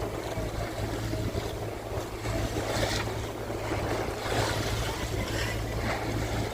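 Sailing yacht under way: water washing along the hull and wind buffeting the microphone, in swells every second or so, over a steady low hum.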